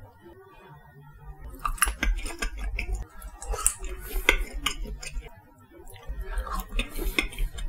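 Close-miked chewing of a chewy omasum-style latiao (spicy gluten strip): irregular wet clicks and smacks, starting about two seconds in, with a short pause a little after halfway.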